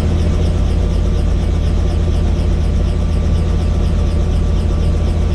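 Helicopter engine and rotor running with a loud, steady, low drone.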